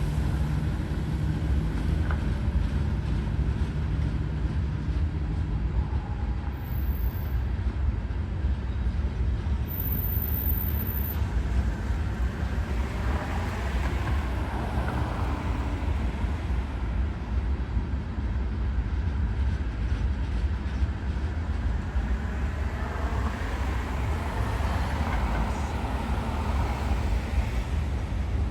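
Norfolk Southern freight train passing with a steady, heavy rumble. The drone of its diesel locomotives is heard for the first six seconds or so, then fades into the continuous rolling noise of the train.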